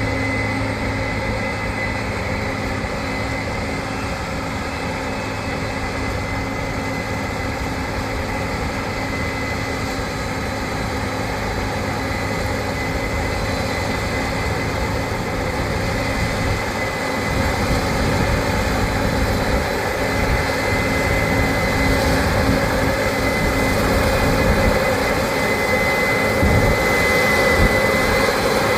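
Combine harvester running steadily under load: a low engine drone with a thin, steady high-pitched whine over it.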